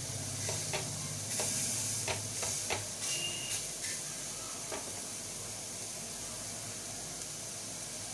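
Boneless chicken kebab pieces sizzling in a frying pan with a steady hiss, with a few light clicks of a utensil against the pan in the first half.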